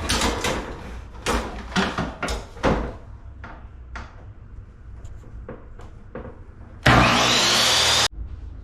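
Knocks and clatter as wooden trim is handled, then about seven seconds in a table saw runs loudly with a rising whine for just over a second before cutting off suddenly.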